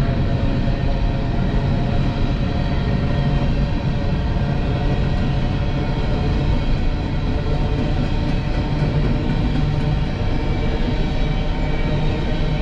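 Loaded or empty coal cars of a freight train rolling past on the track: a steady, loud rumble of steel wheels on rail.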